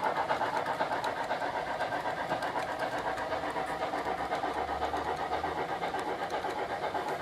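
Model steam locomotive's sound decoder in a Trix Big Boy playing rapid, evenly spaced steam chuffs, several beats a second, easing slightly in loudness after the first second.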